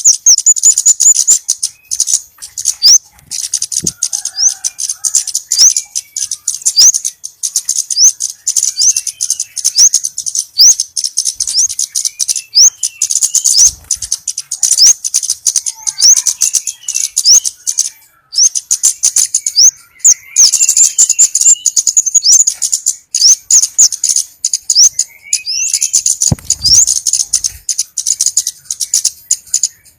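Orange-bellied flowerpecker (cabai bunga api) lure calls: a fast, almost unbroken run of high, thin, sharp chips, many each second, with a few lower twittering chirps mixed in. A short low thump comes near the end.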